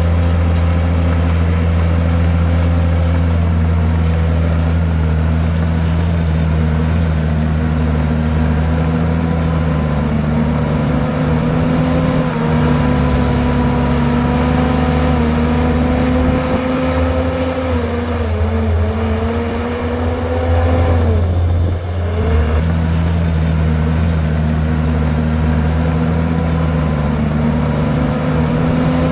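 Komatsu bulldozer's diesel engine running steadily under work. Its pitch sags about two-thirds of the way through, dips sharply for a moment, then comes back up.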